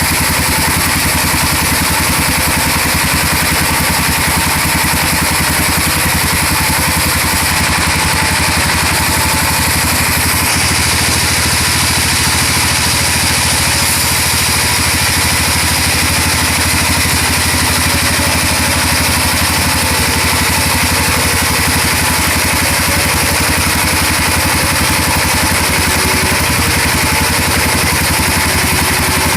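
Sawmill engine and saw running steadily at a constant level, with a slight change in the sound about ten seconds in.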